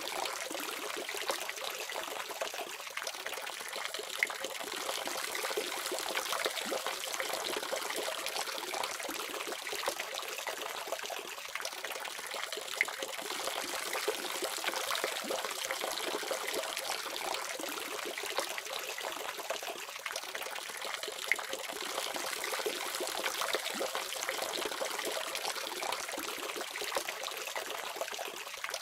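Water running steadily from a faucet, a continuous splashing stream with occasional small sharp splashes.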